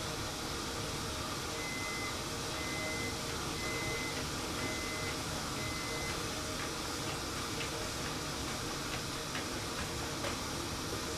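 Steady background hum and hiss, with a run of five evenly spaced, steady high beeps about two seconds in, then a few faint ticks.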